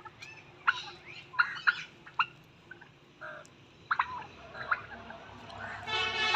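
Domestic turkeys calling: a scatter of short, sharp calls, then near the end a longer gobble from a tom.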